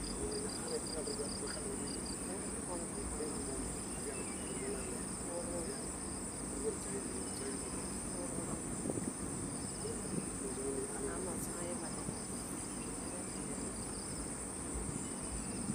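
Steady, high-pitched chorus of forest insects, with a quick pulsing chirp near the start that stops about a second in.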